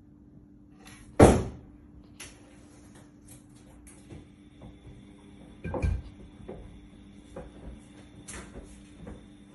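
Household knocks and clatter: a sharp bang about a second in, a heavier thump just before six seconds, and lighter clicks and taps in between, over a steady low hum.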